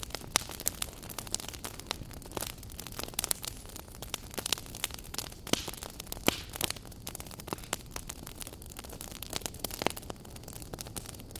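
Wood fire burning in a fireplace: irregular crackles and sharp pops, several a second, over a low steady rumble.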